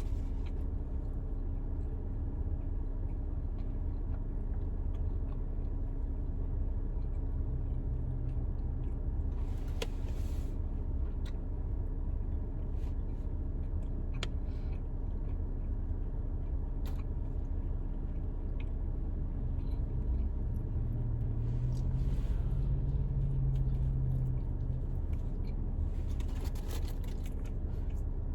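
Steady low rumble and hum inside a car cabin, with a few small clicks and rustles of handling food and wrappers.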